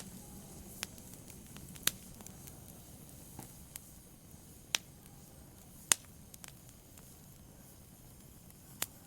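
Wood fire crackling: a faint low hiss with scattered sharp pops at irregular intervals, the loudest about six seconds in.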